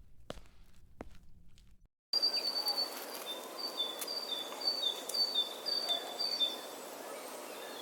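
A few footsteps, then a cut to outdoor ambience. About two seconds in, a small bird starts chirping over it, repeating short notes that alternate between two pitches, and the chirps stop a few seconds before the end.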